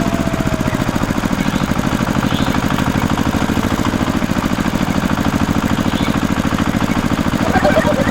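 An engine idling steadily with a fast, even chugging. A few short higher-pitched sounds come in near the end.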